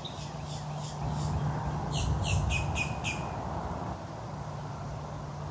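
A bird calling outdoors: a run of short, high chirps, loudest as a quick series of about five notes two seconds in, over a low steady hum.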